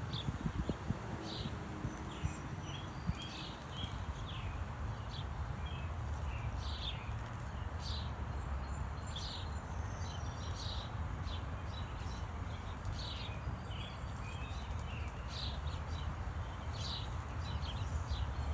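Small birds chirping at a birdbath: short high chirps every second or so, over a steady low rumble.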